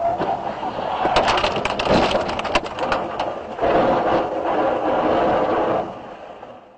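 Car crash: a rapid series of cracking, crunching impacts with scraping, followed by a loud sustained noise lasting about two seconds that then fades.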